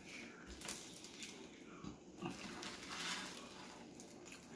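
Faint chewing and mouth noises, with soft irregular clicks and rustles as a toasted sandwich is handled and squeezed.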